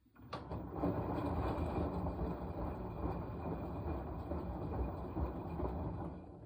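Washing machine running: a loud, steady rushing noise starts abruptly about a third of a second in, holds for about six seconds, then dies away near the end.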